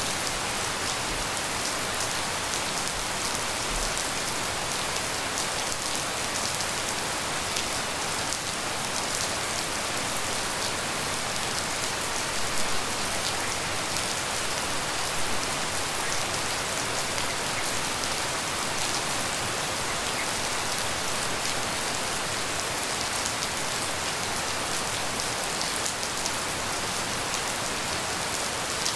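Steady tropical rain falling, a dense even hiss with many fine drops pattering close by. A couple of slightly louder drops or splashes stand out near the middle.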